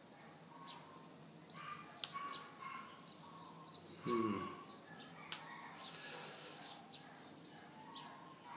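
Birds chirping faintly and intermittently in the background. Two sharp clicks sound about 2 and 5 seconds in, and a brief low hum-like voice sound comes about 4 seconds in.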